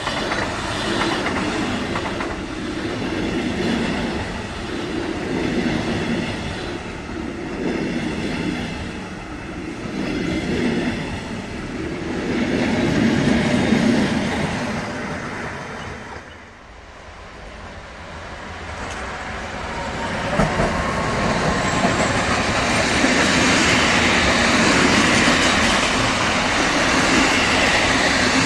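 Trains passing close by on a main line: an ICE-T electric tilting train with rhythmic wheel clatter, then a red double-deck regional train behind an electric locomotive. After a short lull near the middle, the noise builds again as a container freight train rolls past.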